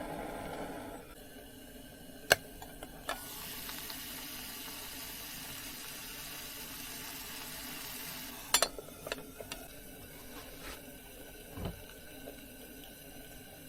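Water running into a small sink for about five seconds, with a few sharp clicks and knocks before and after it.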